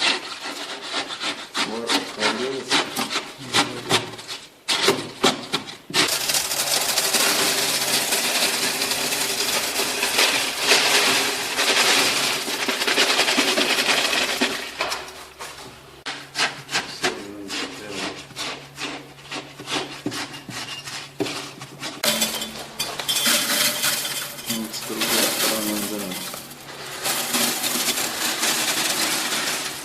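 Hand tool rasping or sawing at a hard building material in many quick back-and-forth strokes, with longer stretches of continuous scraping.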